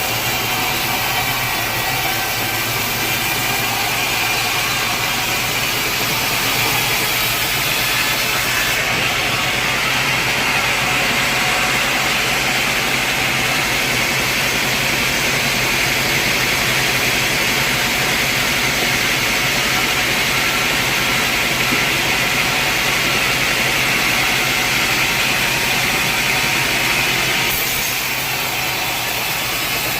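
Sawmill saw and machinery running steadily through a log. The sound gets a little louder and higher from about nine seconds in until near the end.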